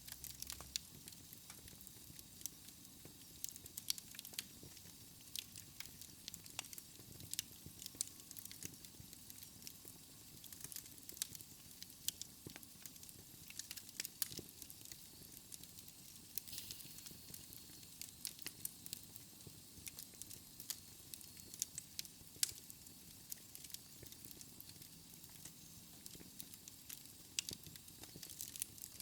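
Fire crackling in a fireplace: irregular sharp pops and snaps over a soft steady hiss.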